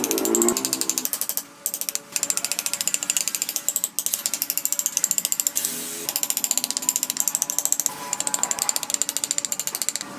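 Rapid, even mechanical clicking, many clicks a second, like a ratchet.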